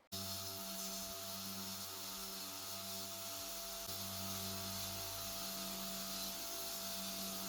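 A steady hum over hiss, with one constant tone and lower hum notes that cut in and out every second or so.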